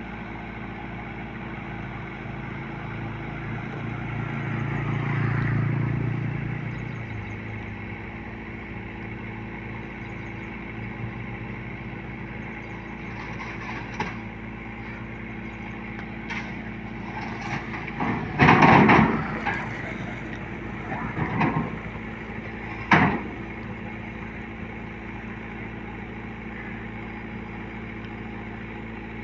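Engine of a rice-cutting machine running steadily; it swells louder for a few seconds around five seconds in. Several loud knocks or clatters come near the two-thirds mark.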